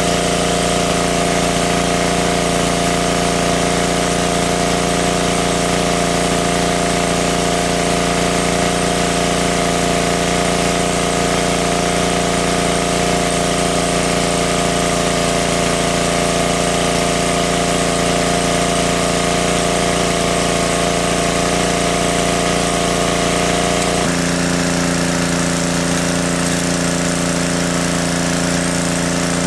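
Small engine running steadily at constant speed, a continuous loud drone. Its tone changes abruptly about three-quarters of the way through.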